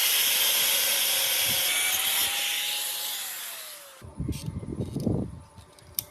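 A power tool running with a loud hiss, then winding down from about three seconds in with a falling tone, followed by a few seconds of irregular scraping.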